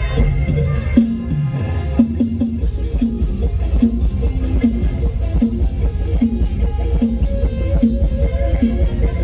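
Mor lam band music with drum kit and guitar, the beat settling into a steady pulse about a second and a half apart from about two seconds in.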